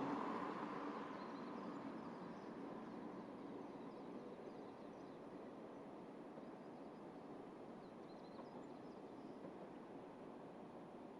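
Diesel railcar running on the line, its sound strongest at the start and slowly fading as it draws away, with faint bird chirps above it.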